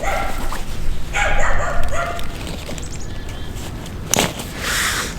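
A dog barking twice in drawn-out barks, the first right at the start and a longer one about a second in. A sharp click follows about four seconds in.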